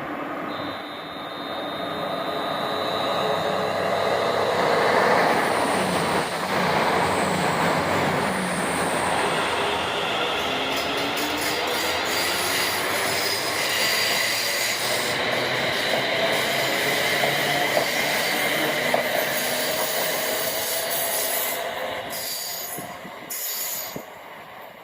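A train passing on the rails: a loud rumble that builds from about two seconds in and fades away near the end, with high squealing tones from the wheels over it.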